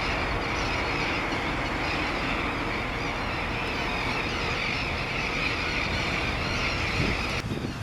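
A dense colony of South American terns calling all at once, a continuous chatter of overlapping harsh, high calls over low wind rumble. The calling cuts off abruptly near the end.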